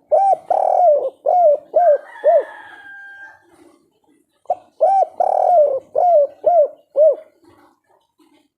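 Spotted dove cooing twice, each phrase a short lead note, a long arched coo and then three short coos: the 'kuk 3' song type. A faint drawn-out whistle sounds between the two phrases.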